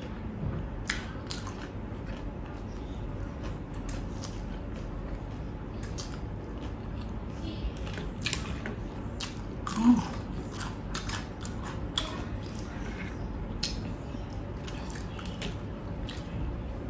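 A person chewing and crunching food close to the microphone: many short, irregular crisp crunches, with one louder click about ten seconds in.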